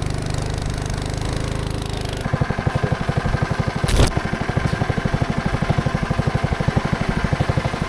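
Small engine running: a steady drone that changes about two seconds in to a rapid, even pulsing, with a single sharp knock about four seconds in.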